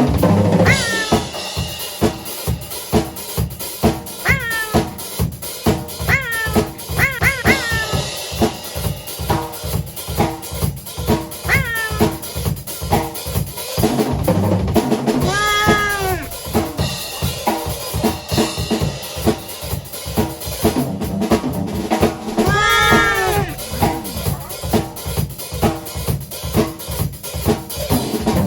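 A cat meowing repeatedly in protest at having its claws clipped, short meows and a few longer drawn-out ones, over a steady beat played on a drum kit.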